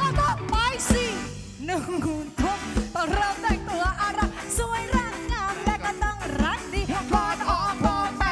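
A live band playing upbeat pop-rock, with a steady drum beat under a bending lead melody.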